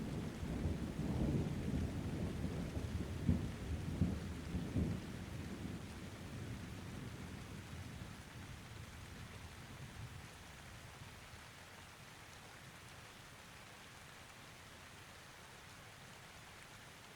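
Thunderstorm: a long roll of thunder with a few sharp cracks in its first five seconds, fading away by about ten seconds in, over steady rain that carries on alone after that.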